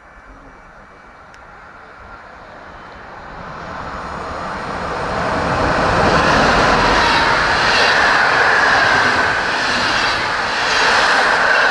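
Express passenger train hauled by an electric locomotive passing through at speed without stopping. The rush of wheels on rails builds over the first few seconds as it approaches. It then stays loud as the locomotive and coaches go by, swelling and fading about every second and a half.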